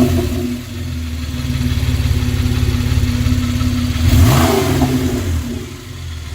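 2014 Porsche 991 Carrera 4S flat-six idling through a Sharkwerks muffler-bypass exhaust, with one quick throttle blip about four seconds in that rises and settles back to idle. With the muffler bypassed it is loud and throaty.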